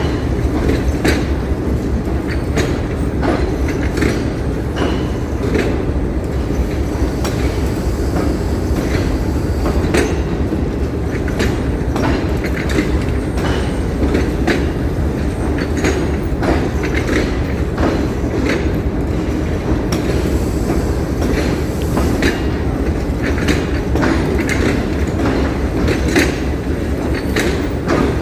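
Train coaches rolling past at close range: a continuous rumble, with wheels clacking over rail joints many times.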